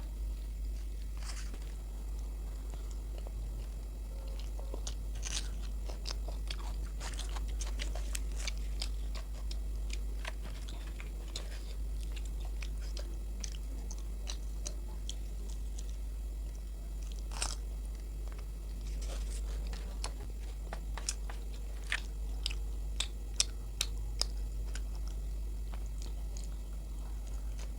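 Close-miked chewing and biting of luchi and aloor dum: wet mouth smacks and soft crunches with a few sharper clicks in the second half, over a steady low hum.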